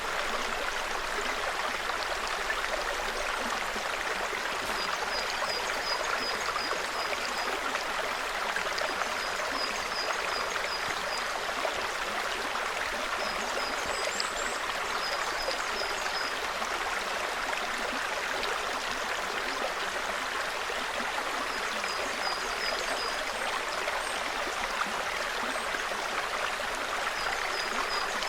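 Small forest stream babbling steadily over stones. Several times a small bird repeats a quick run of short, high notes above the water.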